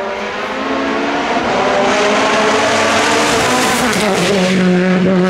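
Race car engine at full throttle on a hillclimb run, growing louder over the first two seconds as the revs climb. The pitch steps down about four seconds in, as at a gear change.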